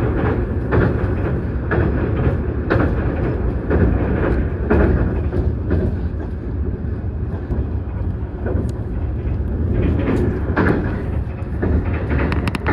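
A train running on the rails: a loud, steady rumble with wheel clacks every second or so.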